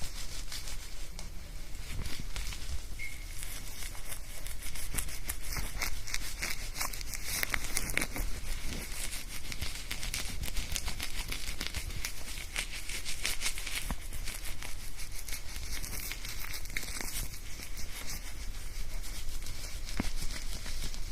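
Hair being shampooed: fingers working lather through wet hair, giving a continuous dense crackle of fine pops and rustling, recorded close to a binaural microphone.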